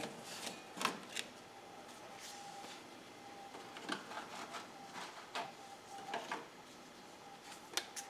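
Scattered light clicks and taps from handling and cleaning at the back of a refrigerator, a dozen or so at irregular intervals, over a faint steady hum.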